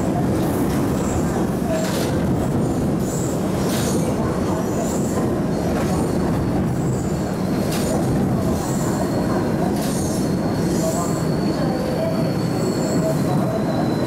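MTR East Rail Line mid-life refurbished (MLR) electric multiple unit running at speed, a steady loud rumble and rattle of the carriage with a few sharp clicks over the rails. A faint high-pitched whine comes in about halfway and holds.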